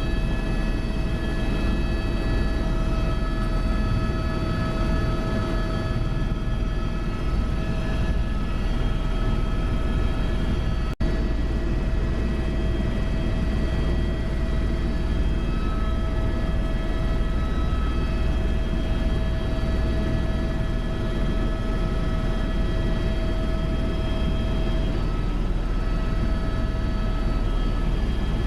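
Helicopter in flight: a steady, loud engine and rotor drone with a steady high whine over it. There is a momentary break about eleven seconds in.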